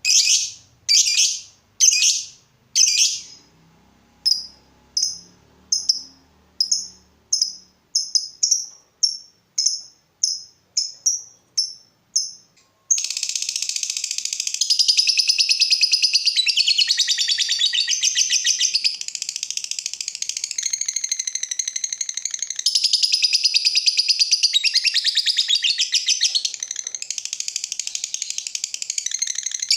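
Lovebird calling: a string of short, sharp, high chirps about one to two a second. About 13 seconds in it breaks into a long, unbroken, rapid chattering song, the 'ngetik' (typing) style of a lovebird singing at full volume.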